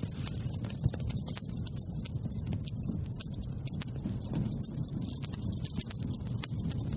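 Campfire crackling: many sharp pops and snaps of burning wood over a steady low rumble.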